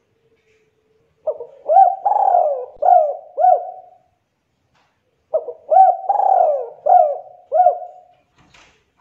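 Spotted dove (tekukur) singing its cooing song twice. Each phrase is a run of about five coos, and the second phrase starts about four seconds after the first.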